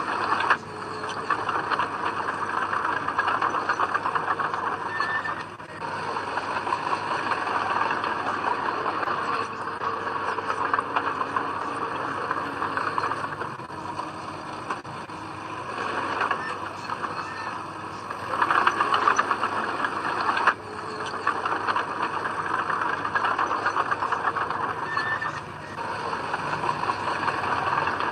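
Komatsu D20P crawler bulldozer working soil: its diesel engine runs under load that rises and eases every few seconds, with a steady rattling clatter. The loudest surge comes past the middle.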